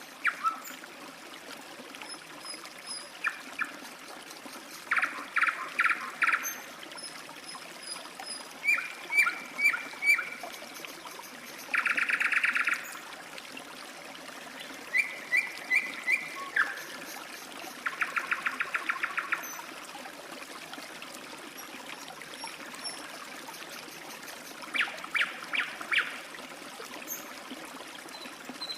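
Stream trickling steadily, with a bird singing short runs of repeated notes and two fast trills, and fainter high chirps from other birds.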